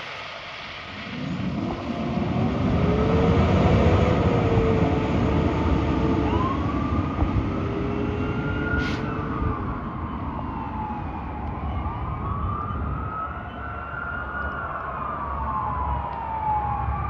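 Fire engine responding with its siren sounding over the rumble of its engine. A lower siren tone rises about a second in and holds, then a higher wail sweeps slowly up and down, about one rise and fall every five seconds.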